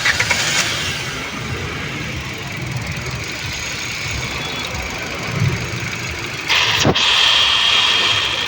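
Hyundai Grand i10's 1.2-litre petrol engine started again after stalling and running rough with a heavy misfire. It gets louder about six and a half seconds in, with a sharp click just before seven seconds.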